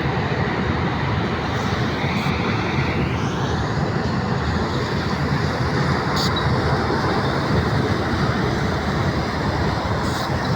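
Asphalt plant machinery running with a loud, steady mechanical noise, with a faint higher whine that shifts in pitch about three seconds in.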